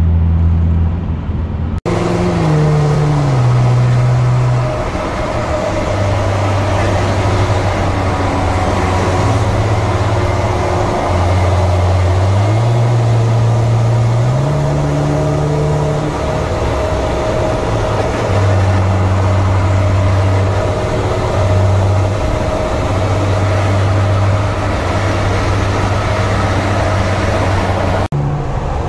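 Steady road and engine noise from a moving vehicle, under a deep bass line that holds notes and steps between a few low pitches, like bass-heavy music playing on the car stereo.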